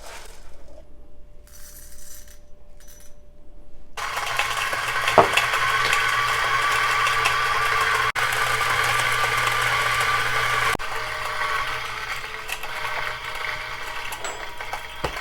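Timemore Sculptor 064S electric coffee grinder with 64 mm flat burrs starting about four seconds in and grinding an espresso dose with a steady whir; about eleven seconds in its low hum stops and a quieter, thinner sound carries on.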